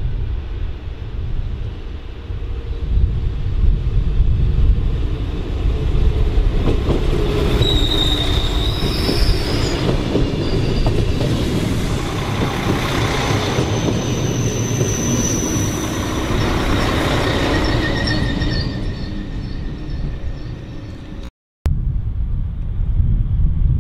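A regional diesel multiple unit (Alstom Coradia LINT) passing close by, its wheels rumbling over the rails. From about 8 to 18 seconds in, high thin wheel squeal rises over the rumble as it takes the curve. The sound breaks off for a moment near the end.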